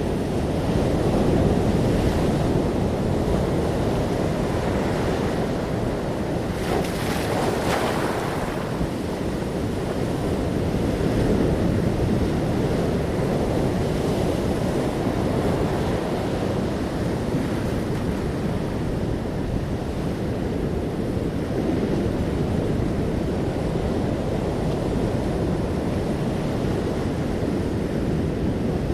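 Ocean waves breaking and washing in, with wind rumbling on the microphone; a brighter, hissing surge of water comes about seven seconds in.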